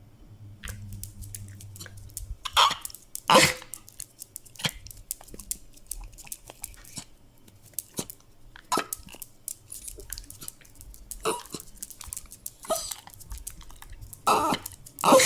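A dog whimpering in short cries, about seven of them, the loudest a few seconds in and near the end, with many small clicks in between.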